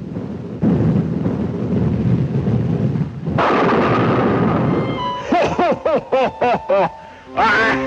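Cartoon soundtrack sound effects: about three seconds of rushing, scraping noise, then a quick run of short rising-and-falling squawking cries.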